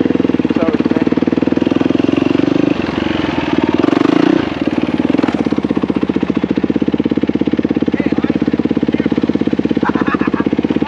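Dirt bike engine idling with a fast, even pulse just after being started, with a brief throttle blip about four seconds in.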